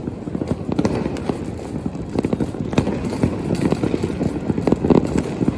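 Fireworks going off over a city, a rapid, irregular run of sharp pops, crackles and bangs over a steady low rumble.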